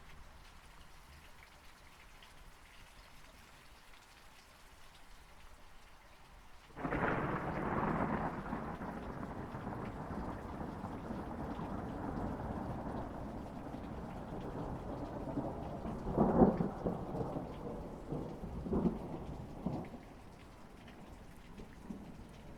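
Steady rain falling, then about seven seconds in a sudden clap of thunder breaks into a long rolling rumble. Sharper cracks come near the two-thirds mark, and the thunder dies away near the end while the rain goes on.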